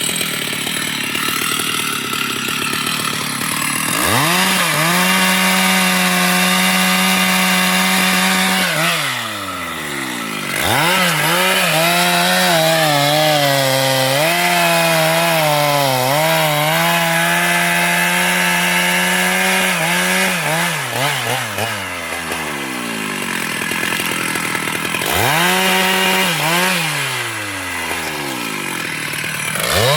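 Chainsaw revved to full throttle three times, about four seconds in, about ten seconds in and near the end, dropping back to idle in between. The pitch wavers while it saws into wood.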